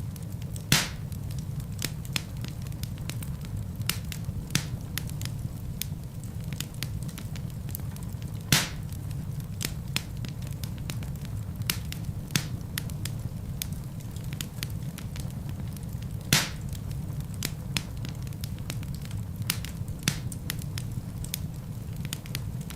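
Wood fire burning in a fireplace: a steady low rumble with frequent light crackles and three louder pops from the burning logs, about a second in, about eight and a half seconds in, and about sixteen seconds in.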